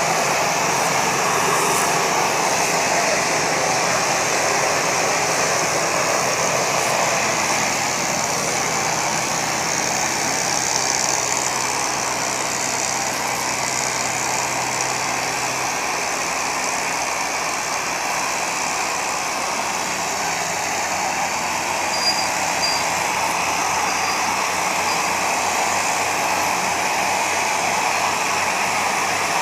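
Tractor engine running steadily, a continuous mechanical drone with heavy noise over it.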